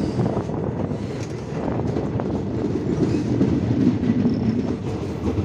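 Passenger train running along the track, heard from on board beside the carriage side: a steady rumble of wheels on rails with a few faint clicks.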